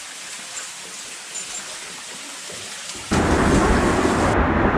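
Steady hiss of rushing water, then about three seconds in a sudden much louder, deep roar of water noise, as of a waterfall or water pouring over the camera.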